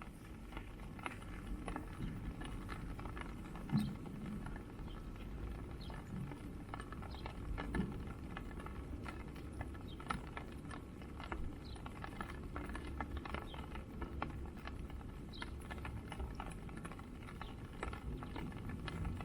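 Bare feet stepping and shifting on a wet, muddy lawn: faint, irregular soft thuds and small ticks, with a louder knock about four seconds in and another near eight seconds.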